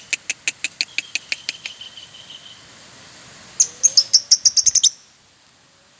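Lovebird chirping: a fast run of sharp calls, several a second, that fades over the first couple of seconds, then a louder quick burst of chirps about three and a half seconds in that stops suddenly near the end.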